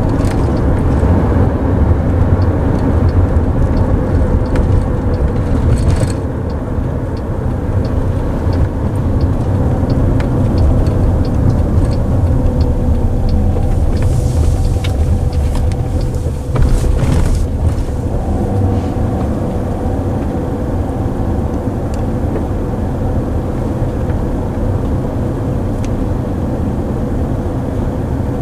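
Road and tyre noise inside the cabin of a Waymo self-driving car on the move, with a steady hum. A turn signal ticks about twice a second through the first half, and a brief rush of noise comes about two-thirds of the way through.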